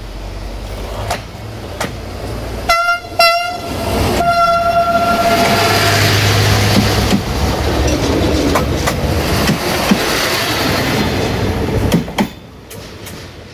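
A train sounds its horn, two short blasts and then a longer one, and runs past close by. The wheels rumble and click over rail joints, and the sound drops away sharply near the end.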